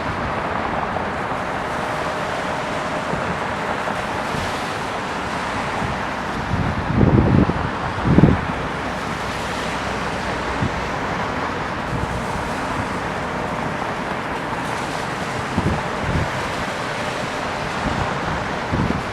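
Steady rushing wind noise on an open-air microphone, with low buffets from gusts hitting the microphone about seven and eight seconds in and again near the end.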